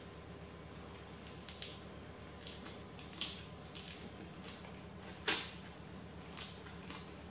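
Close-miked chewing of yellow noodles: a string of short, wet mouth clicks and smacks, the loudest a little past the middle. A steady high-pitched tone runs underneath.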